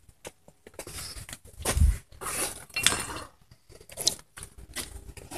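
Metal objects clinking and rattling irregularly as they are handled, with a louder thump a little under two seconds in.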